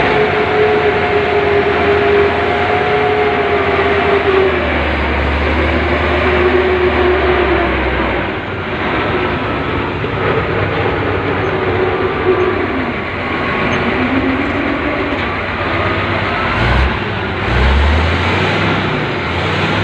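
Heavy mining machine running, a steady engine drone with a whine whose pitch wavers up and down. Its low end swells for a few seconds partway through, and there are a couple of low thumps near the end.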